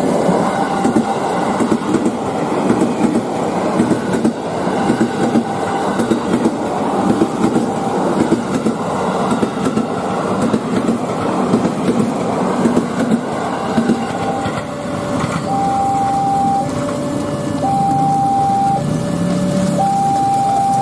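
KRL commuter electric train passing close by, its wheels clattering over the rails, heard through the booth's window glass. From about two-thirds of the way in, the level crossing's warning alarm takes over, alternating a high and a low tone about once a second.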